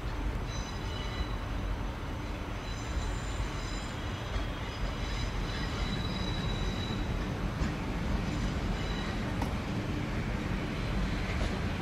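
Siemens Desiro Class 444 electric multiple unit running slowly over curved pointwork, with a steady rumble of wheels on the track. High-pitched wheel squeal comes and goes several times.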